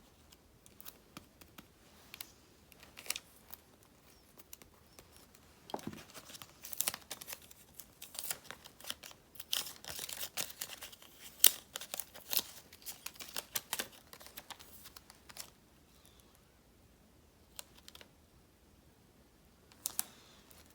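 Sticker sheets and paper being handled close up: crinkling, peeling and small sharp clicks, busiest through the middle, with only a few isolated taps before and after.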